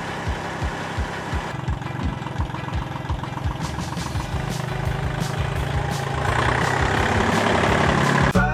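Small old tractor's engine running with a steady, even firing beat. It grows louder and higher about six seconds in.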